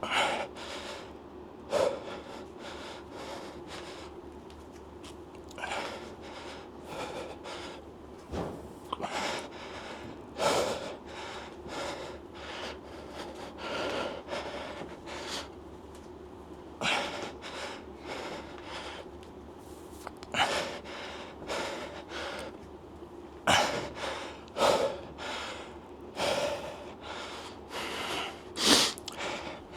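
A man breathing hard: forceful snorting exhales and gasps every one to three seconds, the laboured breathing of a lifter straining through a heavy set.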